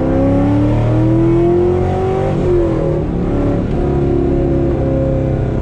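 C5 Corvette's 5.7-litre V8 through a Corsa Extreme exhaust, heard from inside the cabin, pulling hard in second gear. The engine note climbs steadily for about two and a half seconds, then drops sharply and settles to a steady note.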